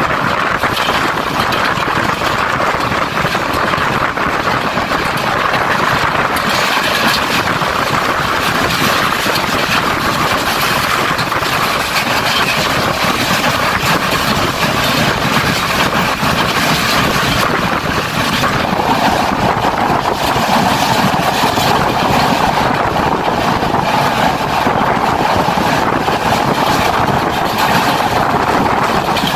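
Passenger train running at speed, heard from an open carriage window: a loud, steady rush of wheels on the rails and wind. About two-thirds of the way through, the noise takes on a somewhat lower tone.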